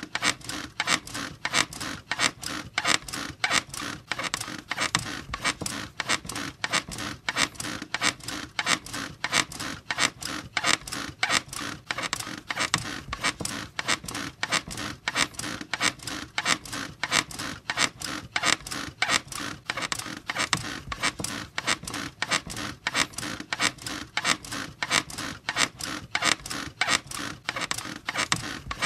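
A squeaky bed creaking over and over in a steady, even rhythm, as if rocked back and forth without pause.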